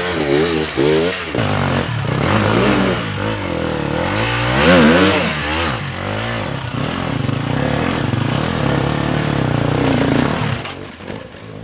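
Dirt bike engine revving hard, its pitch rising and falling over and over as the throttle is worked. It is loudest about five seconds in and drops away near the end.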